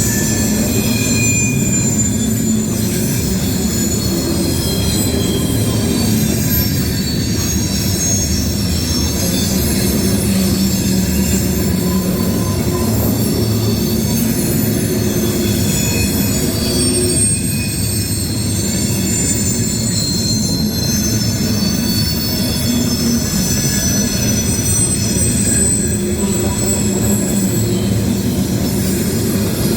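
Loaded coal hopper cars of a long freight train rolling past with a steady heavy rumble, their steel wheels squealing against the rails in high, wavering tones that come and go.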